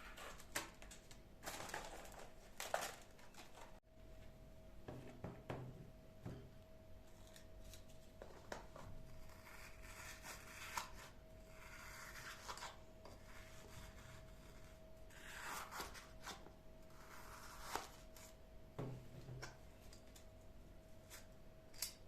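Rustling, crinkling and light clicks and knocks of household items being handled, in several short spells, over a faint steady hum.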